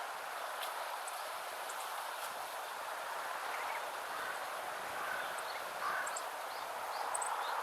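Meadow bunting singing: a run of short, high chirping notes that starts about five seconds in, over a steady rushing background noise.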